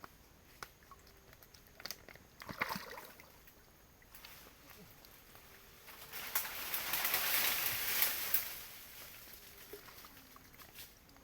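Water splashing and sloshing for about two seconds, starting some six seconds in, after a few scattered small knocks and clicks.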